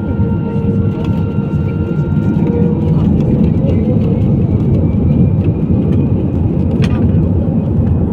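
Airbus A320 jet engines heard from inside the passenger cabin: a loud, steady rumble, with a few thin whining tones that fade out about three seconds in.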